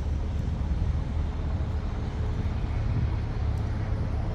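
A steady low rumble with an even noise over it, unchanging throughout.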